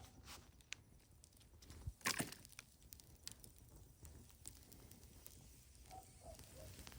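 Wood campfire crackling with scattered sharp pops and snaps, including a louder cluster of snaps about two seconds in.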